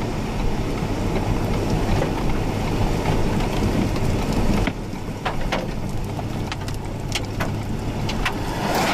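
Steady rumble and hiss inside a car, with rain on the vehicle; from about halfway through, scattered sharp taps of drops hitting the car.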